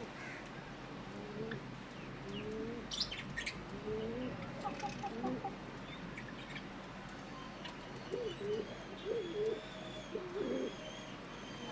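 Pigeons cooing, a series of low rising and wavering calls that grow louder near the end, with faint high chirps of small birds.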